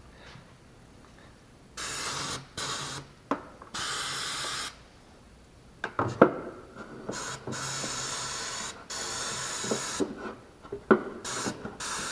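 Repeated short hissing spray bursts, each up to about a second long, from a spray nozzle used to clean the engine's water pump mounting area. Sharp knocks and clicks sound between the bursts.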